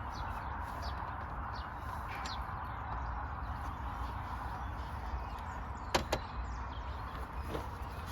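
Light clicks and one sharp metallic clink about six seconds in, over a steady background hum, from hand work on the car while the starter motor is being removed.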